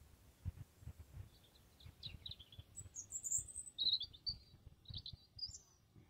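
A small songbird giving a run of short, high chirps and trills starting about a second in, loudest in the middle, over low irregular bumps on the microphone.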